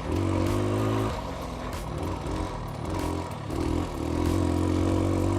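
1982 Cagiva SX 350's two-stroke engine running under throttle. The throttle is eased off about a second in, comes back unevenly for a few seconds, then is held steady again near the end.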